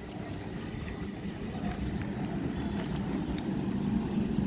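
Electric multiple-unit suburban local train running past close by, a steady low rumble of wheels on the rails with a faint motor hum, growing slowly louder.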